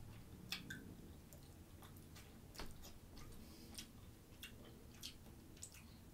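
Faint close-miked chewing of a mouthful of food, with scattered soft mouth clicks at irregular intervals.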